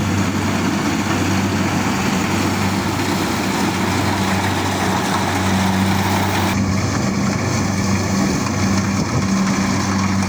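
Engine running steadily at an even speed, with a steady low hum throughout; the higher hiss over it changes abruptly about six and a half seconds in.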